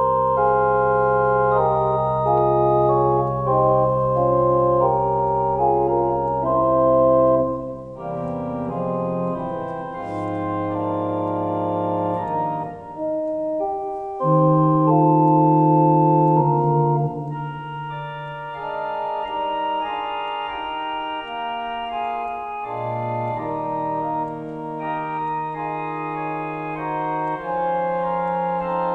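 Organ playing slow, sustained chords over long-held bass notes, swelling louder twice.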